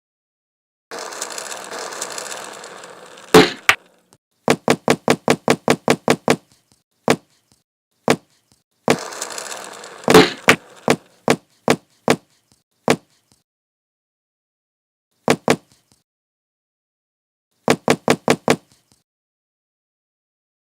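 Mechanical sound effect of a ratchet or gear mechanism: two short stretches of whirring, each ending in a sharp knock, then runs of rapid clicks, about five a second, and a few scattered clicks.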